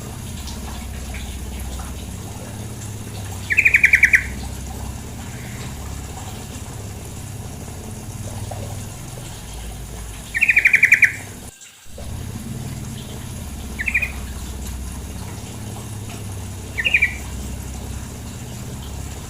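Yellow-vented bulbul (female trucukan) giving short, rapid chattering calls: two longer ones and two brief ones, over a steady rush of flowing water, which cuts out briefly a little past the middle.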